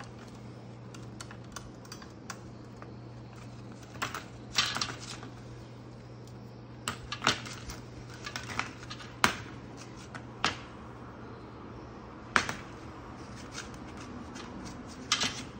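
Copper pipe and metal hand tools being handled and cut: scattered sharp clicks and taps at irregular intervals, a few louder knocks among them, over a steady low hum.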